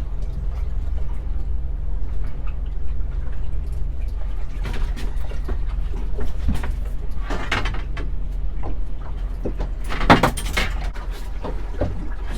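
A dogfish being reeled up and landed on a small fishing boat: a steady low drone with several short bursts of splashing and handling noise, the loudest about ten seconds in.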